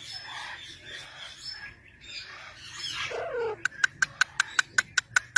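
Parrot calling: a short falling squawk about three seconds in, then a rapid run of about a dozen sharp, clicking chirps near the end.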